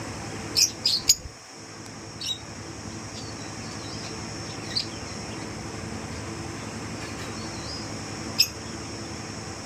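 Fischer's lovebirds giving short, sharp chirps: three in quick succession near the start, then single chirps every few seconds. A steady hum runs underneath.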